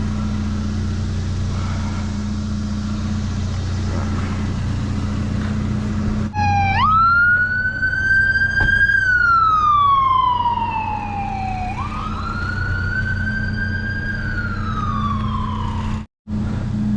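Emergency vehicle siren in a slow wail, rising and slowly falling twice, over a steady low engine hum. The siren cuts off abruptly near the end.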